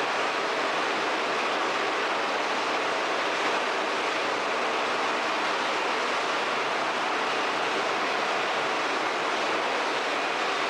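Steady, even machinery noise from a waste-tire recycling line running, with no rhythm or separate impacts.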